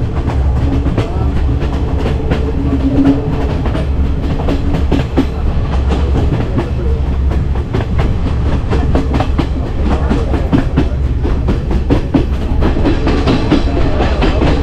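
Passenger train running, heard from inside a carriage: a steady low rumble with a constant run of clicks and rattles from the wheels on the track and the carriage.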